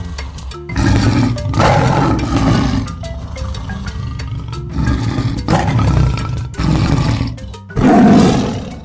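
Tiger roaring and growling several times, in separate loud bursts, with the last one, near the end, the loudest. Background music plays under the roars.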